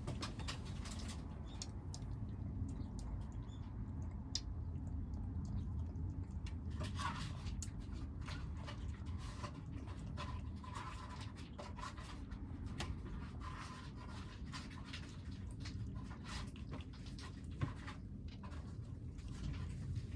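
Stray kittens eating: many small scattered clicks and crunches of food, a few short pitched sounds among them, over a steady low rumble.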